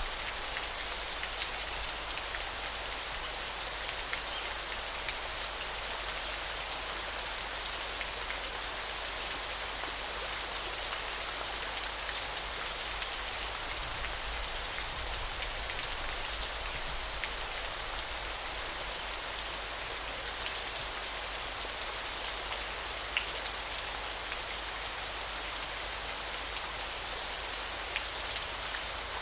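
River water rushing steadily. Over it, a high, thin chirring comes and goes in pulses of a second or two, about a dozen times.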